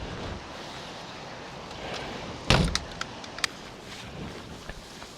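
Steady rush of river water with one hard knock about halfway through, followed by several lighter clicks and knocks, like a paddle or the creek boat's hull striking something.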